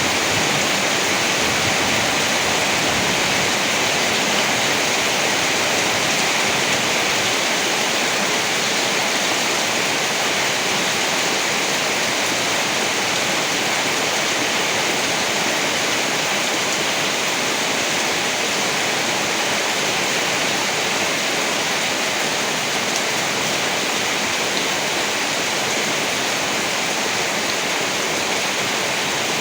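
Heavy rain falling in a steady downpour, an even hiss with no single drops or rumbles standing out.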